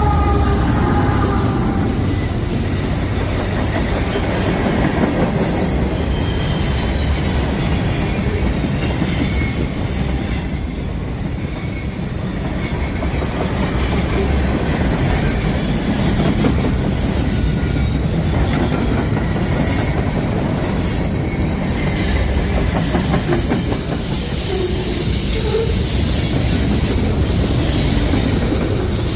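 Train cars rolling past on the rails: a steady, heavy rumble of wheels on track, with brief high-pitched wheel squeals scattered through.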